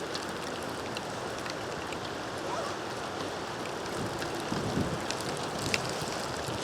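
Steady rain with wind buffeting the microphone, with faint scattered raindrop ticks.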